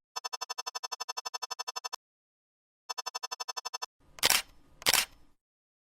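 Electronic sound effect: a rapid, buzzy beeping tone at about ten pulses a second, in two runs, followed by two short sharp noise snaps like a camera shutter.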